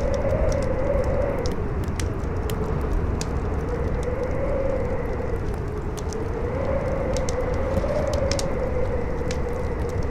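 Strong wind howling over a steady low rush, its whistling pitch rising and falling every few seconds, with a campfire crackling and popping throughout.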